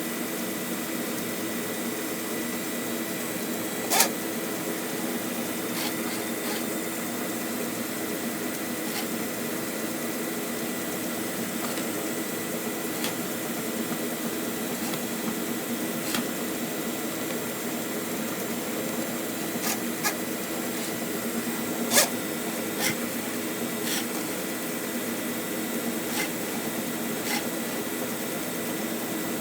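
Electric Flexi Rodder FRE drain-cleaning machine running steadily, spinning a wire cable through a blocked drain pipe. A few sharp clicks, the loudest about 4 and 22 seconds in.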